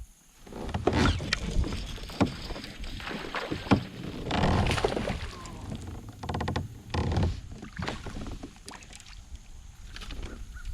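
Water splashing and knocking around a kayak, an uneven run of sloshes with sharp knocks against the hull, starting about half a second in.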